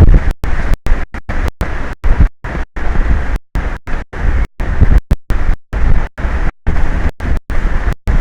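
Strong wind buffeting an outdoor camera microphone: a loud, low rumble. The audio keeps cutting out to silence for brief moments, several times a second.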